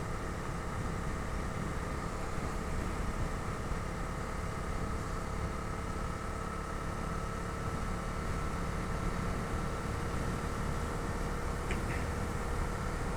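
Bajaj Dominar 250's single-cylinder engine running at a steady, unchanging pitch, heard from the pillion seat over a low rumble.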